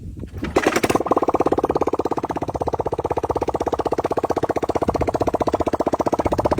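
Small engine of a homemade bike helicopter coming in about half a second in, then running steadily with a rapid, even pulsing.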